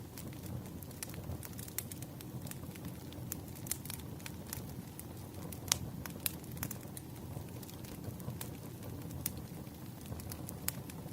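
Burning firewood crackling: a steady low rumble of flame with irregular sharp pops and snaps, the loudest pop about six seconds in.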